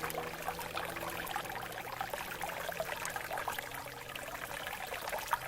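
A shallow stream flowing over rocks, babbling steadily with many small gurgles and splashes.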